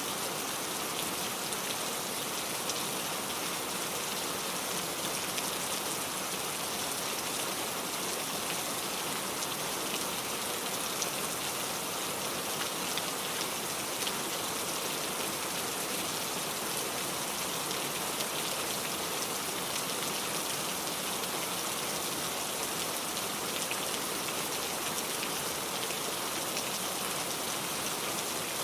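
Steady rainfall, a dense even hiss of many drops with scattered individual drop ticks.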